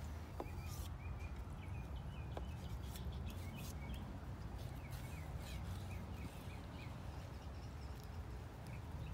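A small bird chirping again and again in short quick notes over a steady low rumble, with brief faint scrapes and clicks in between.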